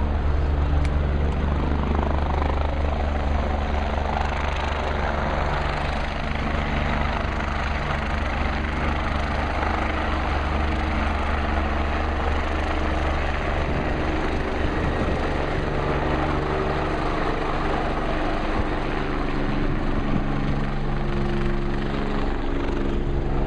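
MBB/Kawasaki BK 117 twin-turbine rescue helicopter running steadily: a continuous deep rotor drone under turbine and blade noise, the low drone easing a little in the last few seconds.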